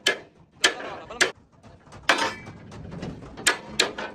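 Several sharp knocks and clicks, irregularly spaced, about six of them.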